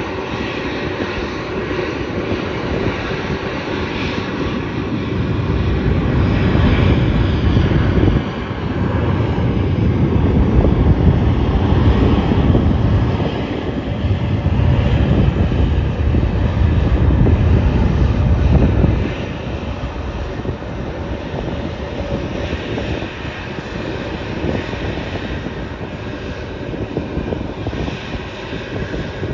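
Airplane engines running loud and steady, with a thin high whine over a wide roar. A heavy low rumble swells from about six seconds in and drops away suddenly near nineteen seconds.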